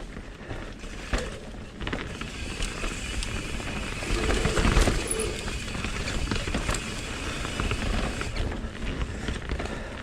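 Mountain bike riding fast down a dirt trail: tyres running over dirt and rocks, with the bike rattling and clicking. It gets louder about four to five seconds in.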